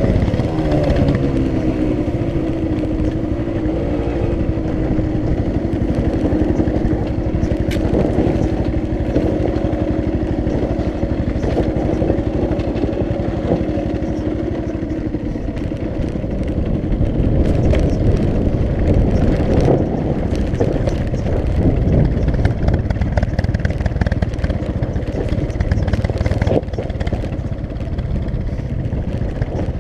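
Dirt bike engine running on a rough forest trail. Its pitch falls over the first couple of seconds and then holds steady. A few sharp knocks and some clatter come from the bike going over bumpy ground.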